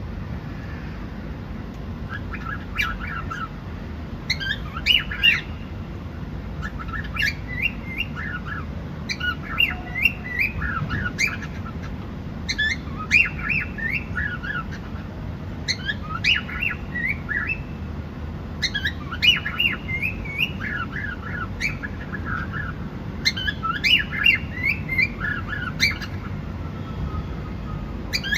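Cockatiel chirping: quick runs of short, high chirps, a new run every two or three seconds, over a steady low background noise.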